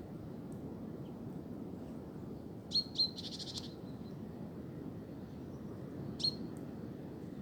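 Steady low rush of wind, with a small bird's sharp high chirps: two close together about three seconds in, trailing into a brief buzzy trill, and one more a little after six seconds.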